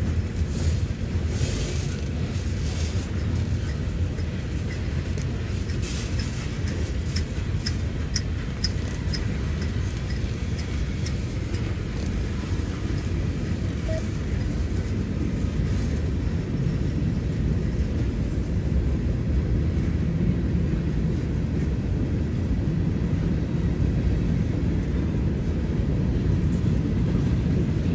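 Diesel locomotive engine running with a steady low rumble, growing slightly louder in the second half.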